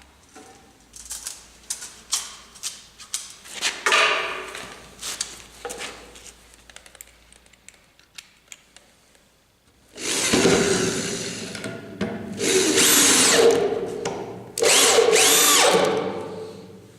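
Handheld electric drill, run with the hammer action off, used in place of an overloaded cordless screwdriver. In the first half it gives short clicks and brief bursts; from about ten seconds in come loud long runs, the motor pitch rising and falling as the trigger is squeezed and eased.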